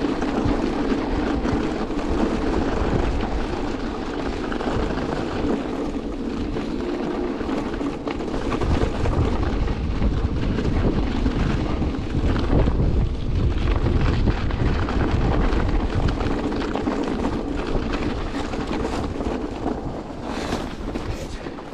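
Wind buffeting the microphone during a ride on an electric two-wheeler in a blizzard, a steady rushing rumble with the ride's noise under it.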